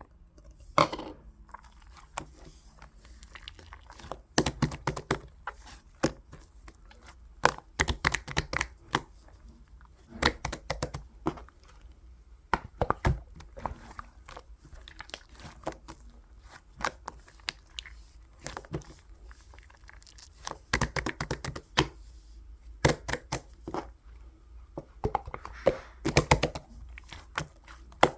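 Slime being squished and poked by hand, making irregular bursts of crackling, popping clicks.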